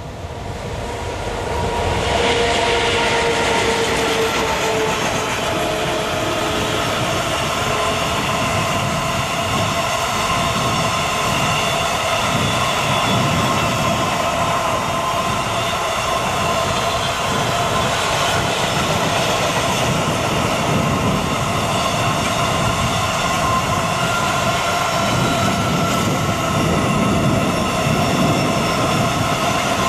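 Intermodal container train hauled by a 3E/1 electric locomotive rolling past at speed, growing louder about two seconds in, then a steady rumble of wagon wheels on the rails with high ringing wheel tones.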